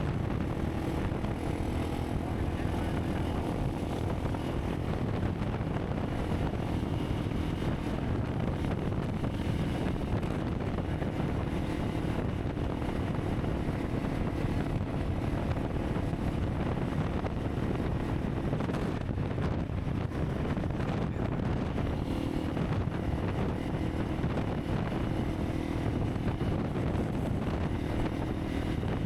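Honda CRF300 Rally's single-cylinder four-stroke engine running steadily while riding, mixed with heavy wind noise on the microphone.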